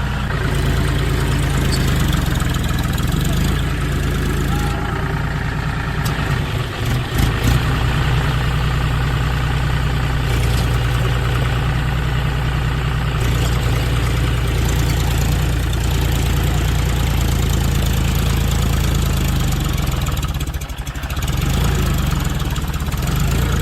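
Tractor engine running steadily, with a brief drop in level near the end.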